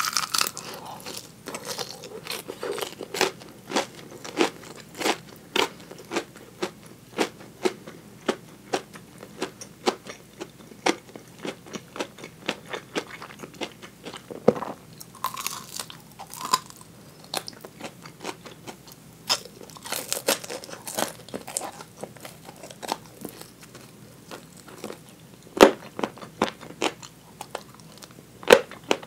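Close-miked crunching and chewing of crispy deep-fried chicken drumettes (tulip karaage): a steady run of short crisp crunches, one or two a second, with a few louder crunches of the fried coating now and then.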